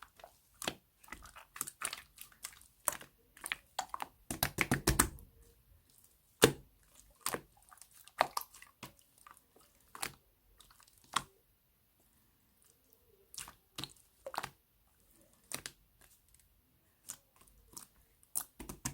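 Milky white slime being squished and pressed by hand, making irregular wet clicks and pops, with a rapid run of them about four to five seconds in and sparser single pops after.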